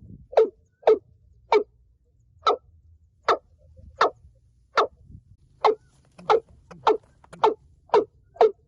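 Watercock calling: a long series of short, deep notes, spaced out at first and quickening to about two a second near the end.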